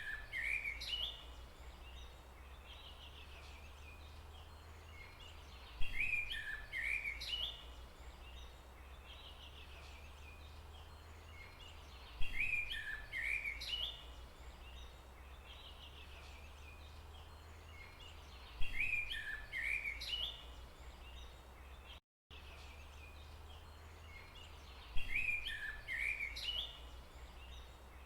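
A songbird's short phrase of quick, falling chirps, repeated the same way about every six seconds, over a steady low rumble. There is a brief dropout near the end.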